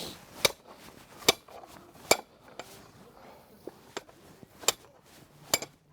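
Axe striking bundled firewood in a series of sharp chopping knocks, about eight, unevenly spaced.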